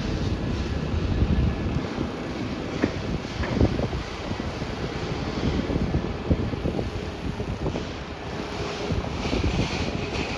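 Wind buffeting an outdoor microphone: a gusty low rumble that swells and dips throughout.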